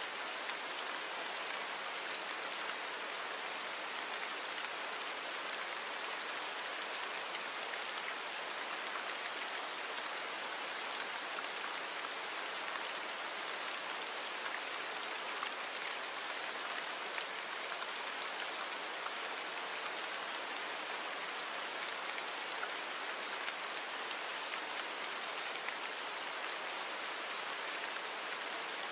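Steady rainfall, an even hiss of drops falling on a surface, with no change in intensity.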